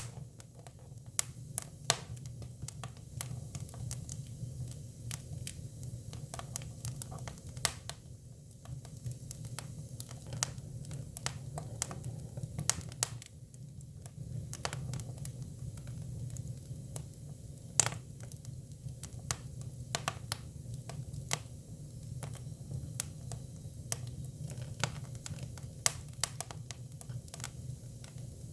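Hinoki cypress firewood burning, with irregular sharp crackles and pops, a few louder than the rest, over a steady low hum.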